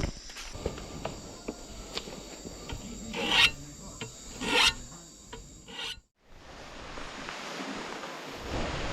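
Rasping scrapes: three loud strokes among small clicks and knocks. About six seconds in, the sound cuts briefly to silence and then gives way to a steady hiss.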